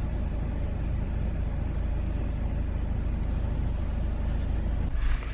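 Steady low road rumble of a car in motion, heard from inside the cabin, with a short louder rush near the end.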